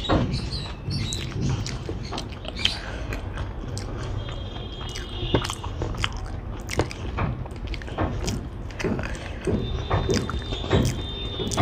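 Close-up eating by hand: wet chewing and lip smacks, with fingers squishing and mixing rice and chicken curry on a plate, heard as many short, irregular clicks over a low steady hum.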